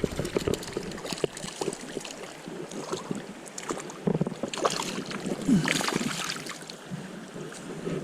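River water splashing and sloshing close to the microphone, with scattered short knocks and some wind on the microphone.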